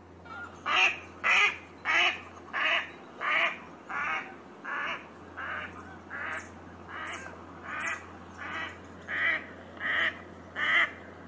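Duck quacking: a steady run of about sixteen short quacks, roughly one and a half a second.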